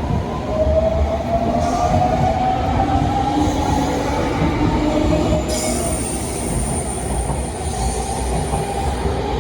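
Electric train running, with a steady rumble and a motor whine that slowly rises in pitch as it picks up speed; a thin high squeal of the wheels sets in about halfway through.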